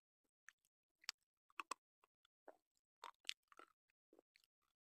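White slate pencil being chewed close to the microphone: a scattered run of short, crisp crunches and small clicks, the strongest about a second in and again around three seconds in.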